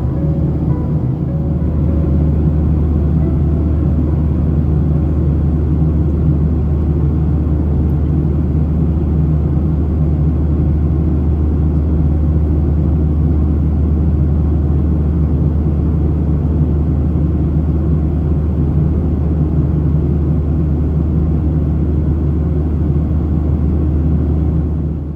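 Steady low drone inside a Boeing 737-800's cabin in flight, from its CFM56 jet engines and the airflow.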